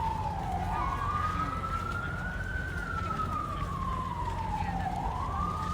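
Emergency vehicle siren in a slow wail, its pitch rising and falling about once every four to five seconds, over a steady low rumble.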